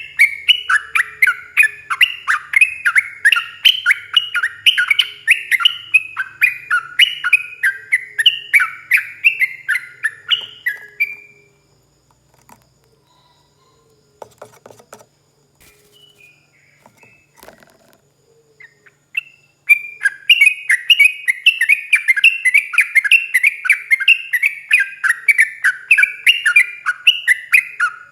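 Yellow-vented bulbul (trucuk) singing a long, rapid run of bubbly chirping notes, several a second. It breaks off about 11 seconds in for a quiet pause with a few faint notes and clicks, then starts again about 20 seconds in.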